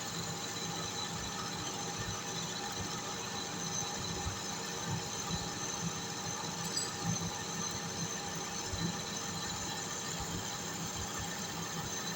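Metal lathe running while turning a shaft: a steady machine hum with several held high tones and irregular low knocks.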